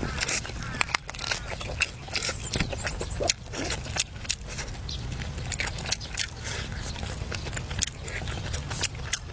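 A person chewing and crunching food close to the microphone: irregular sharp crunches and clicks over a low steady background.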